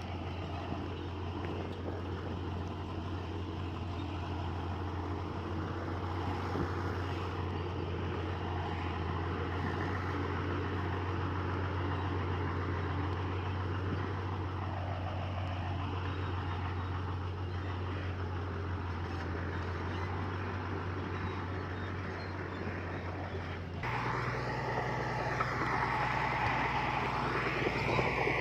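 Heavy diesel earthmoving machinery running steadily with a low engine hum. Near the end the engine note steps up higher and louder, with some squealing above it.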